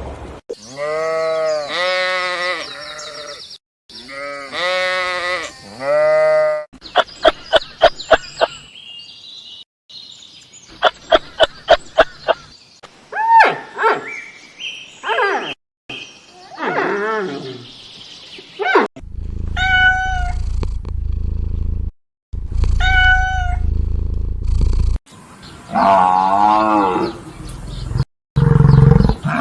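A string of separate animal calls, each a short clip that starts and stops abruptly, one after another. The calls are pitched and change from clip to clip, some drawn out and some in quick chattering runs.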